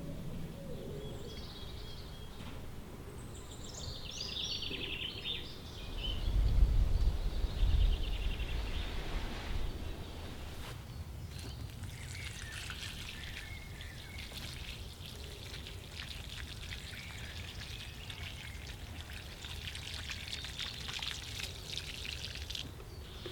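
Birds chirping in a garden, then water pouring and spattering steadily from about halfway through, typical of plants being watered. A loud low rumble comes about a quarter of the way in.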